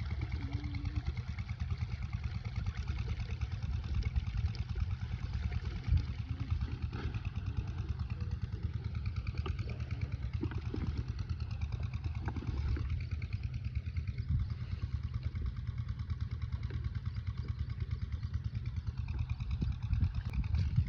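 8 HP diesel pumpset engine running steadily with a fast, even chugging, with a few faint knocks over it.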